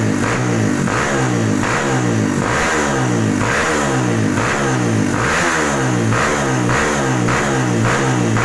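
Trail motorcycle engine through a Norifumi aftermarket exhaust, revved repeatedly in quick throttle blips, a little under two a second.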